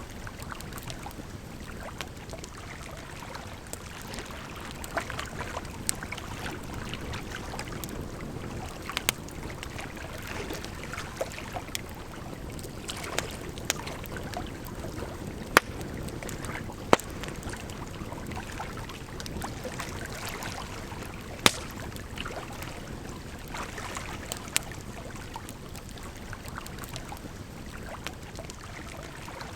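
Wood campfire crackling, with scattered sharp pops and snaps over a steady rush of flowing water. A few pops, around the middle and about two-thirds of the way through, stand out louder than the rest.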